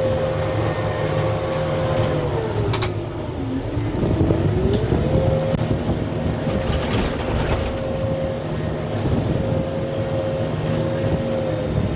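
Kubota M6-141 tractor's diesel engine running under heavy load. About three seconds in its pitch sags as it lugs down, then climbs back a second or so later. A few sharp cracks are heard over it.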